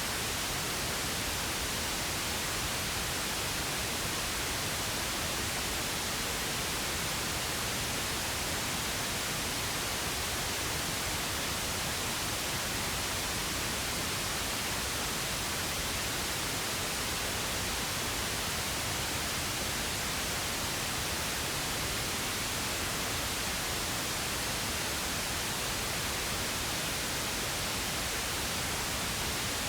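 Steady synthetic pink noise: an even, unchanging hiss with more weight in the low end than white noise.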